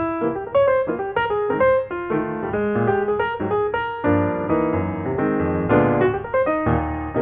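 Piano music: a run of struck notes and chords played at an even pace.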